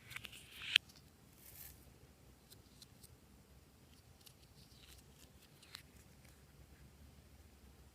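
Slime being pressed and stretched by hand: a short crackly swell that ends in one sharp pop just under a second in, then faint scattered sticky clicks.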